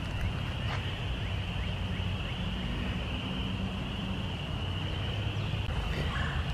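Chorus of spring peepers calling: a steady high peeping, with a few single rising peeps standing out near the start, over a low steady rumble of wind on the microphone.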